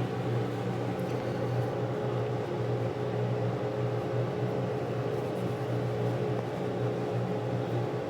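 A steady machine hum, with a low drone and a fainter higher tone, holding even throughout.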